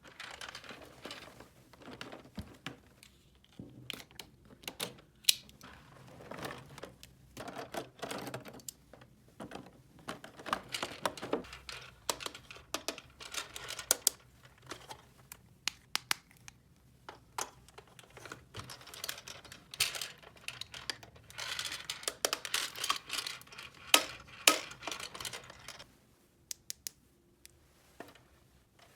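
Hands handling plastic toy packaging and parts: crinkling and rustling with many irregular sharp clicks, going quiet near the end.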